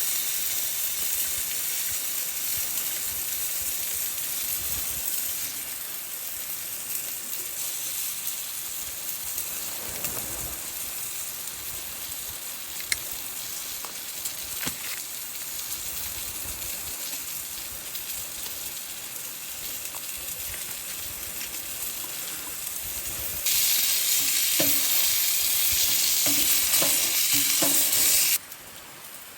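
Food frying in a pan: a steady sizzle with a few light clicks. It grows louder in a stretch near the end, then cuts off suddenly.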